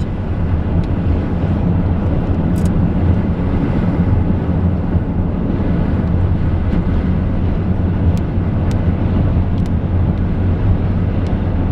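A vehicle running with a steady low hum and rumble, with a few faint sharp ticks over it.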